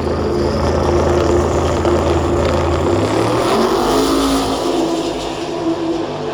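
Car engine running loud and steady, its pitch shifting about three seconds in.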